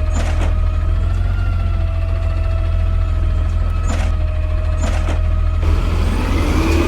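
Side-loader garbage truck running with a heavy low engine hum and a steady high whine, with several sharp metallic clanks as it works. A rising whine comes near the end.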